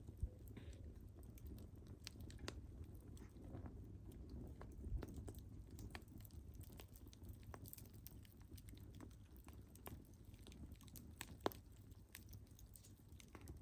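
Wood fire crackling: scattered sharp pops and snaps of burning logs over a low, steady rumble of the flames. One louder snap comes near the end.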